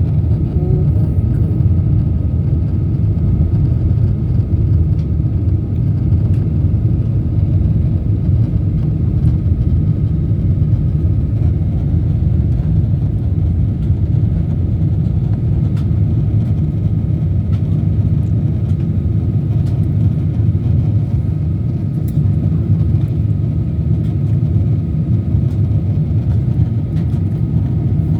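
Boeing 777 cabin noise on final approach: a steady low rumble of jet engines and airflow, with a faint steady whine above it.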